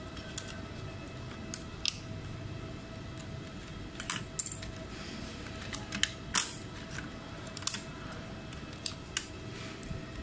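About a dozen light, sharp clicks and taps, irregularly spaced and the loudest about six seconds in, over a steady electrical hum: small tools and parts handled on a laptop repair bench.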